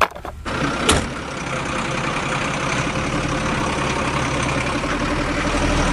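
Two sharp clicks, then an engine idling steadily with a low, even hum.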